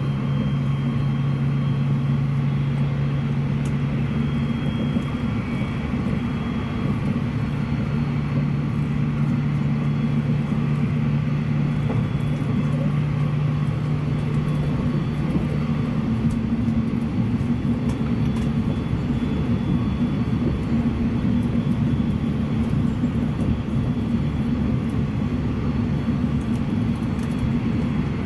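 Steady running noise inside a 683-series limited express electric train at speed: wheels on rail and a constant rumble. A low steady hum stops a little past halfway while the rumble continues.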